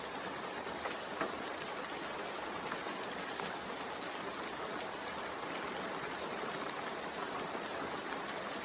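Steady rain, an even hiss of falling rain with a few faint drop ticks in the first second or so.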